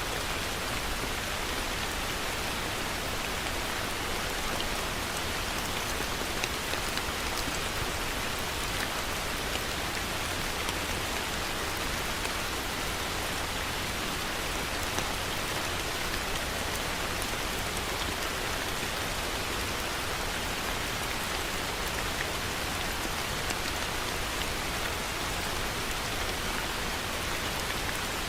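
Heavy rain falling steadily, an even dense patter of drops on surfaces with faint scattered individual drop ticks.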